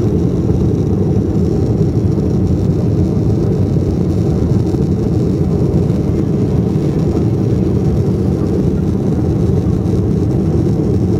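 Jet airliner engines at takeoff power, heard from inside the passenger cabin as a steady, deep, even noise.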